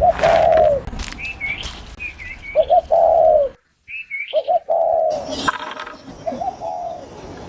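Birds calling: a low arching call repeated four times, with higher short chirps in between. The sound drops out completely for a moment about halfway through.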